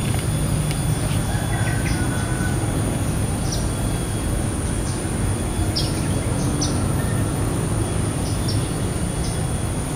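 Short, high bird chirps scattered through, over a steady low rumble and a thin, steady high-pitched whine.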